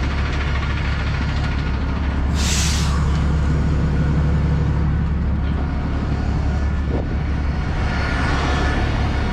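Semi truck's diesel engine running with a steady low drone, with a short hiss of air about two and a half seconds in and a softer one near the end.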